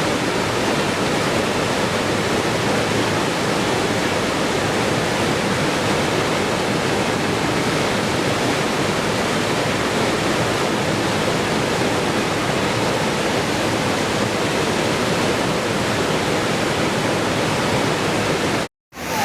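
Waterfall rushing steadily, an even noisy roar of falling water. It cuts out completely for a split second near the end.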